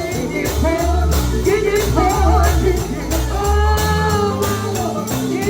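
Live gospel music: a lead voice sings and holds a long wavering note over a bass line and a steady beat with tambourine.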